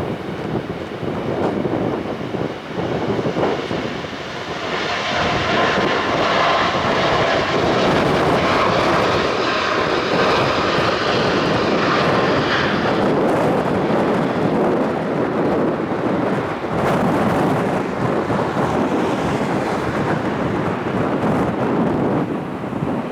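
Boeing 787 jet engines at takeoff power, a rough roar with a high whine that grows loud about five seconds in and fades after about thirteen seconds as the airliner passes.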